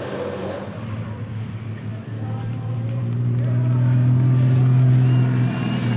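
Racing truck's engine running at a steady pitch, growing louder over a few seconds as it comes closer, then easing briefly near the end.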